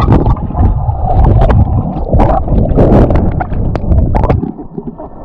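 Close splashing and churning of water at a GoPro's microphone as someone swims across a fast, rain-swollen river, with irregular slaps and knocks; the splashing eases off near the end.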